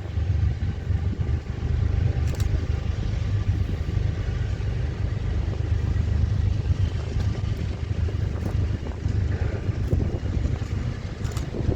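Iowa Interstate freight train rolling through, a steady low rumble with a few brief clicks.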